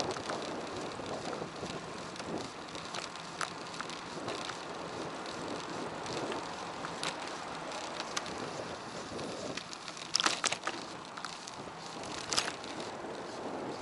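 Bicycle being ridden: steady tyre and wind noise with scattered clicks and rattles from the bike, the loudest a quick cluster about ten seconds in and another click about two seconds later.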